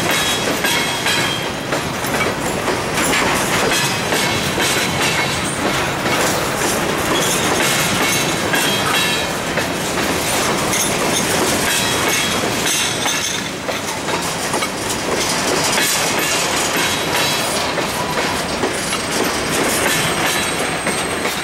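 Empty covered hopper cars of a freight train rolling past close by: a steady rumble and clatter of steel wheels over the rail joints, with a thin high squeal now and then.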